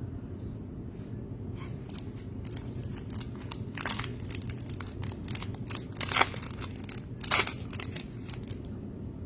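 Foil trading-card pack wrapper crinkling and being torn open, a run of sharp rustles with two louder rips about six and seven seconds in.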